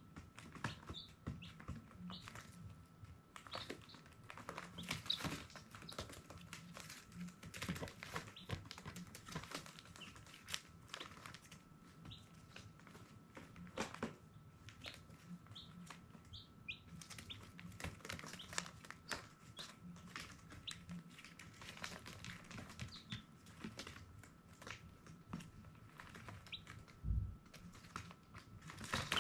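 Baby chicks peeping: scattered short, high chirps over frequent clicks and rustles, with a faint steady whine underneath.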